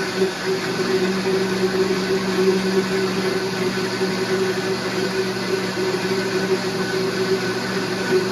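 Electric blender motor running steadily, mixing the puppies' goat-milk replacement formula.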